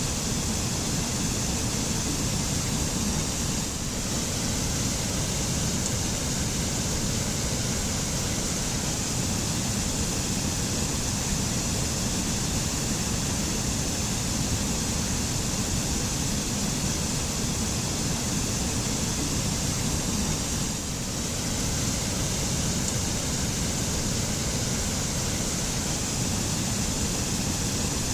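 Waterfall: a steady rush of falling water, even throughout, dipping slightly for a moment about four seconds in and again near twenty-one seconds.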